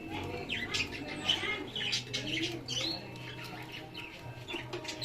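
Budgerigars chirping and chattering: many short, quick calls that rise and fall in pitch, close together.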